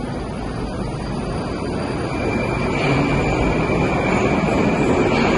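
Metro train running through the station: a steady rumble that grows louder from about two seconds in, with a steady high whine coming in at the same point.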